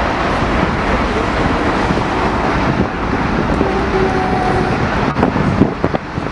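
Steady jet engine noise from a departing Boeing 747-400, with wind buffeting the microphone near the end.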